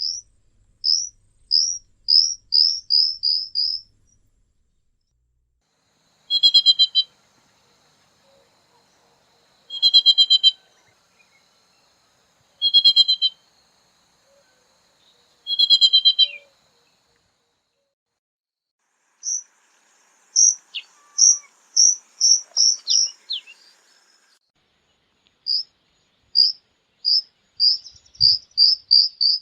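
Songbirds singing in turns. One song is a run of short high notes that speeds up, heard at the start, again past the middle and near the end. Between these, a different short phrase repeats four times, about three seconds apart.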